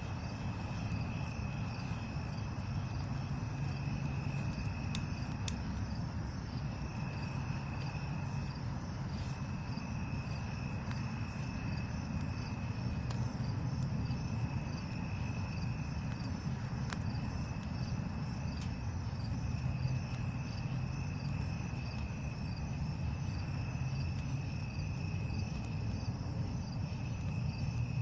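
Crickets trilling in a steady high-pitched drone, in long stretches with brief breaks, over a constant low rumble. A few sharp pops from the campfire crackle now and then.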